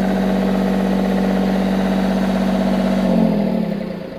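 A boat's onboard generator engine running at a steady speed, then shut down about three seconds in, its pitch falling as it winds down and fades.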